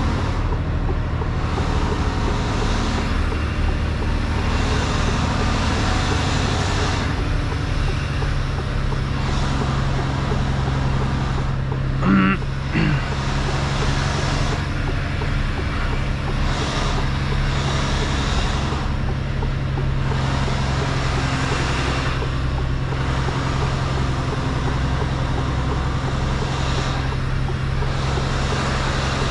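Mercedes-Benz Actros truck's diesel engine running steadily, heard from the cab, with road and air noise that rises and falls every few seconds. About twelve seconds in, a brief pitched sound comes twice.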